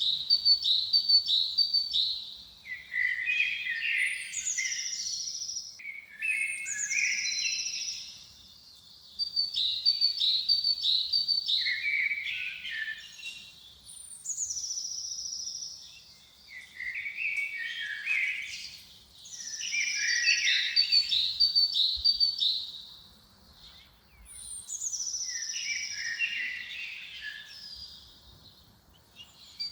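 A songbird singing the same short phrase over and over, about every four seconds. Each phrase opens with a high note sliding down, runs into a quick string of notes, and ends on lower notes.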